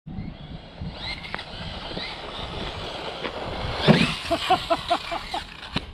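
Small scale brushless RC car running, its electric motor whining up in short rising bursts over a steady noise of tyres on the ground. A person's voice comes in short repeated bursts in the second half.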